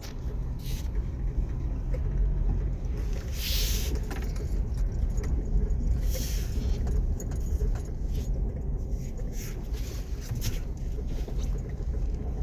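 Vehicle driving, heard from inside the cab: a steady low rumble with a few brief rattles.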